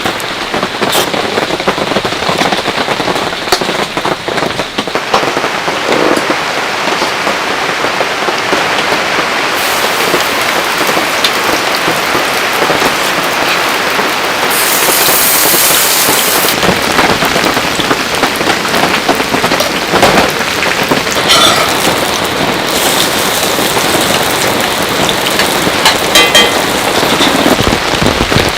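Heavy rain falling steadily, with many individual drops striking a near surface. A brief louder hiss comes about halfway through.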